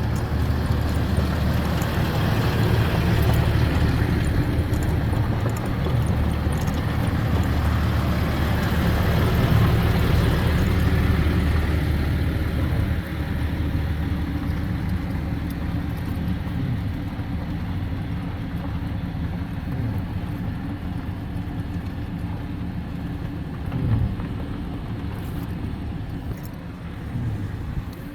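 Car engine and road noise as a vehicle drives slowly, a steady low rumble that eases off about halfway through. A short thump comes about 24 seconds in.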